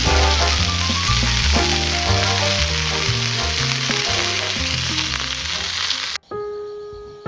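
Food sizzling in a pan, with background music and a moving bass line underneath. About six seconds in, the sizzling cuts off abruptly and soft piano-like keyboard notes carry on.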